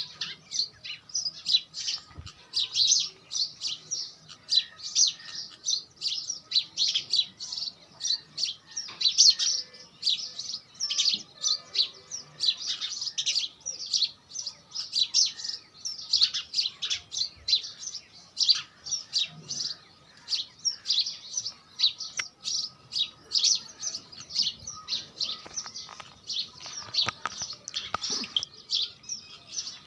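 Small birds chirping: quick, high-pitched chirps that come several times a second, over and over without a break.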